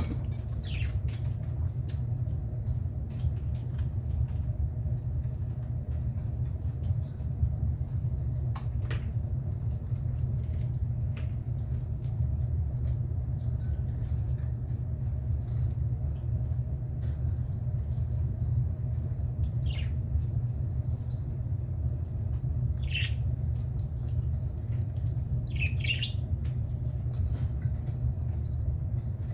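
A few short budgerigar chirps, mostly in the second half, over a steady low rumble.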